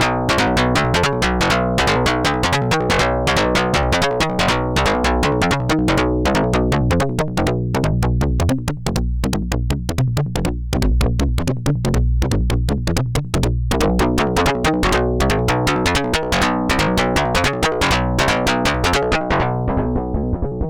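Electronic drum pattern from an Erica Synths Perkons HD-01 drum synthesizer: fast, dense, regular hits over steady pitched low tones. The high hits thin out for a few seconds in the middle, then come back.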